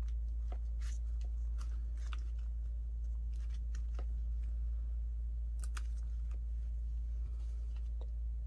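Soft, scattered crinkles and clicks of paper being handled and glued down for a collage, over a steady low hum.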